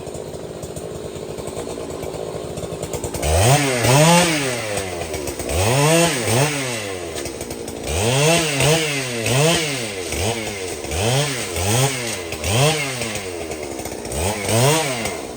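Large two-stroke chainsaw idling, then revved again and again in short throttle blips, about a dozen, the engine pitch rising and falling with each, some in quick pairs.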